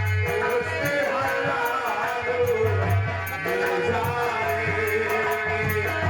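Indian folk stage music for a Nautanki show: a melody over a deep drum pulse and a quick, steady rattling beat.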